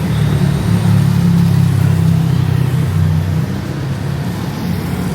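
A motor vehicle driving past close by on a city street, its engine loudest over the first three seconds and then easing off into steady traffic noise.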